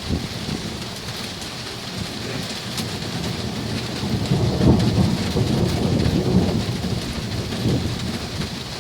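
Heavy rain falling steadily, with a long roll of thunder that builds from about two seconds in, is loudest near the middle and dies away near the end.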